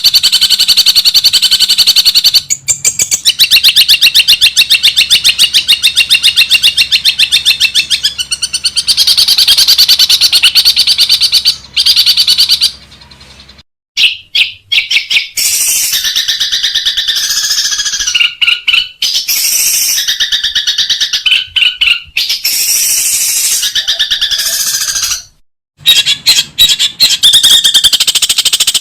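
Long-tailed shrike (cendet) singing loud, rapid strings of repeated harsh chattering notes, the fast 'ngekek tembakan' style, in several long bursts with brief breaks about halfway and near the end. A faint low hum runs under the first half and stops about halfway.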